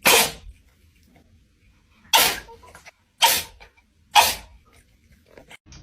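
A pet sneezing four times: short, sharp sneezes, the last three about a second apart.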